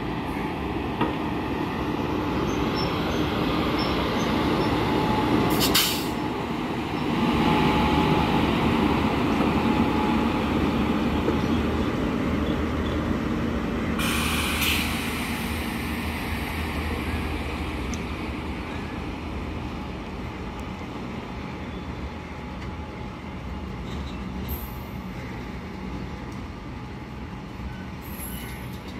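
Freight train passing, its wagons rumbling on the rails, loudest in the first half and slowly fading toward the end. Two brief sharp noises cut through, one about six seconds in and one about halfway.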